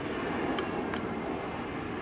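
Steady noise of jet airliner engines, with two faint clicks about half a second and a second in.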